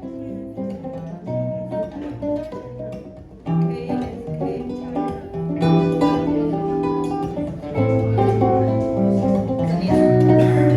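Acoustic and electric guitars playing together in an instrumental passage of plucked notes and chords, getting louder about three and a half seconds in.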